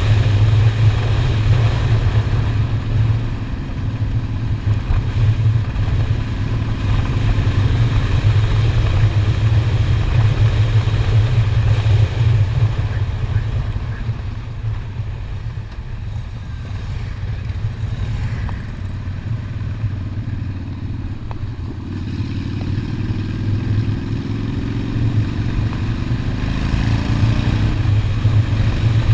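Honda Shadow V-twin motorcycle engine running under way, steady at first, easing off and quieter through the middle, then rising in pitch as it accelerates in the last few seconds.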